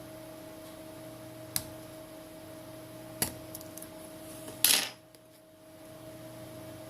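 Small hard clicks of tools and phone parts being handled during a smartphone teardown: two sharp clicks, then a brief louder clatter about four and a half seconds in. A steady low electrical hum underneath.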